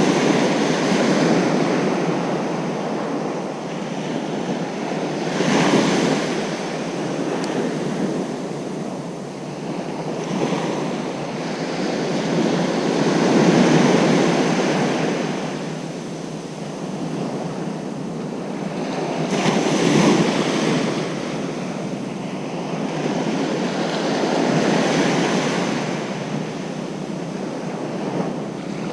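Ocean surf breaking on a beach, the wash swelling and easing every five to seven seconds, with some wind on the microphone.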